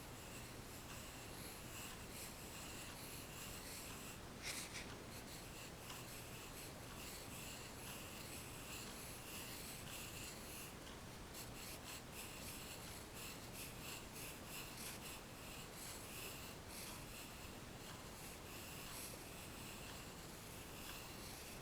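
Pencil scratching on paper in a run of short, repeated sketching strokes, faint and close, with one louder stroke about four and a half seconds in.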